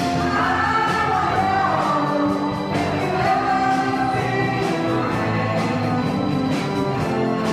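Live band performance: a song sung over band accompaniment with a drum beat.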